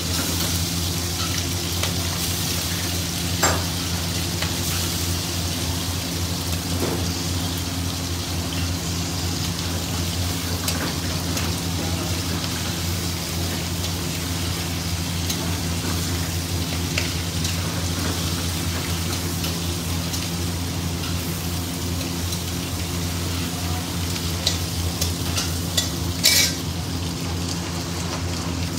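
Marinated river prawns sizzling steadily as they shallow-fry in hot oil in a steel kadai. A metal spatula clinks against the pan a few times, loudest near the end, over a steady low hum.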